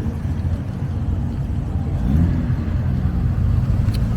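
Car engine running, with a short rise in revs about two seconds in.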